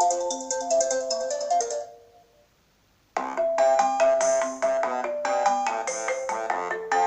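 iPhone 6s ringtones: one ringtone's melody of quick repeated notes fades out about two seconds in. After a brief silence, a different ringtone starts just after three seconds in.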